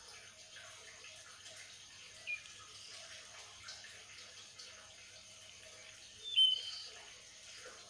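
Faint steady background hum with a bird chirping briefly twice, once about two seconds in and again, louder, near the end.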